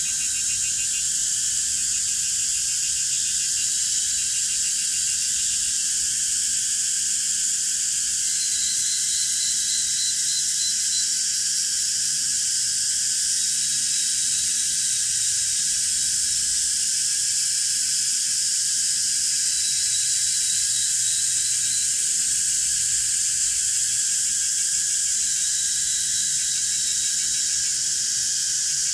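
Dense chorus of insects: a steady shrill high hiss, with rapid pulsed cricket-like trills starting and stopping now and again, over a faint low wavering hum.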